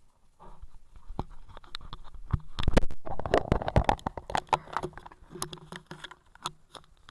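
Handling noise: a quick, irregular run of clicks, knocks and scrapes with a low rumble, busiest in the middle and thinning out near the end.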